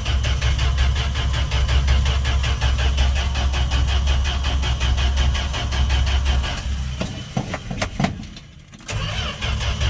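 Dodge D100's slant-six engine running unevenly just after a cold start, then faltering and dying out about eight seconds in, and started again just before the end. It is struggling to keep running while cold.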